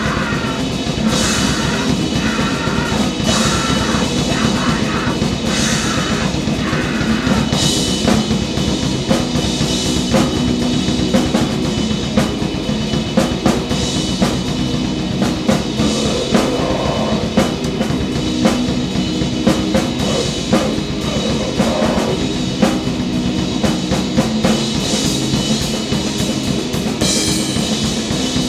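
Grindcore/noise band playing live: distorted guitar and bass over fast, dense drumming, loud and chaotic.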